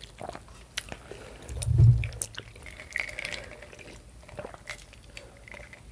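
Close-miked eating sounds: chewing and small wet clicks of food in the mouth, with a loud low thump just under two seconds in.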